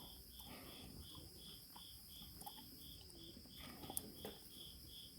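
A cricket chirping steadily, about three chirps a second, with a few faint knocks, the loudest about four seconds in.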